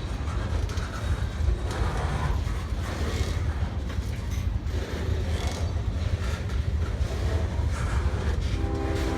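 Freight train going by with a steady low rumble and rail noise. A locomotive horn starts sounding near the end.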